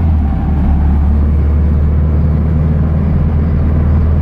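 A 1970 VW Baja Bug's 2276cc air-cooled flat-four engine running under way, heard from inside the car. Its low drone drops in pitch right at the start, then holds steady.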